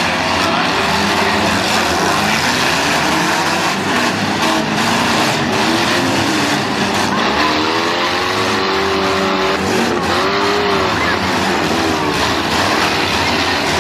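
Several demolition derby cars' engines running loudly together. Their pitch rises and falls repeatedly as the drivers rev them, most plainly in the middle of the stretch.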